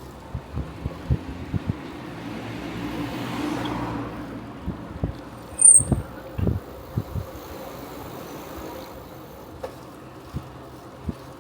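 Wind and rolling noise from a bicycle on the move, with short knocks and rattles as it goes over bumps, the loudest cluster about six seconds in. A car passes about three to four seconds in.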